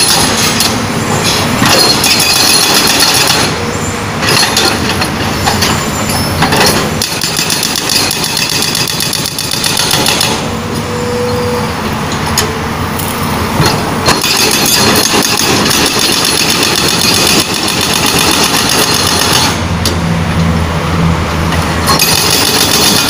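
Excavator-mounted hydraulic breaker hammering rapidly into road asphalt in several bouts with short pauses, the excavator's diesel engine running beneath it.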